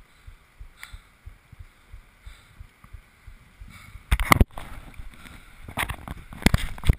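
Kayak on the water: soft low knocks about three a second, then, from about four seconds in, three loud bursts of splashing and bumping against the boat.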